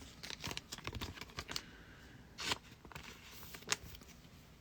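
Trading cards from a 2024 Panini Prizm baseball pack being handled and slid against one another. Light clicks and rustles come first, then a longer brush a little past halfway, and a sharp snap near the end.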